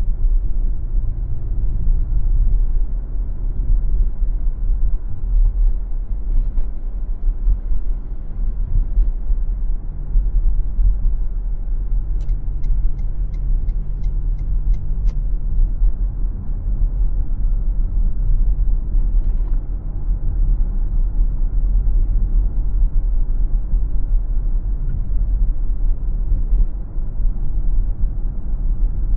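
A car driving on city streets: steady low rumble of road and engine noise. Near the middle comes a short run of faint, evenly spaced ticks, about two a second.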